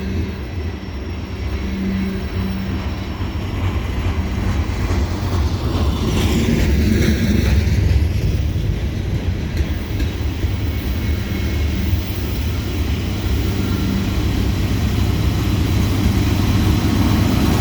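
Loaded coal train's hopper cars rolling past on the rails: a steady low rumble that grows gradually louder.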